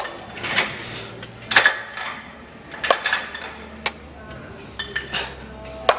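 Metal gym weights clinking and clanking during a heavy set, several sharp strikes about a second apart, the loudest about one and a half seconds in.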